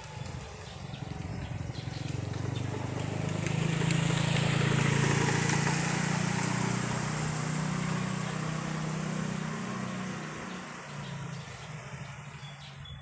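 A motor vehicle passing by: its engine hum and road noise grow louder over a few seconds, peak about five seconds in, then fade away.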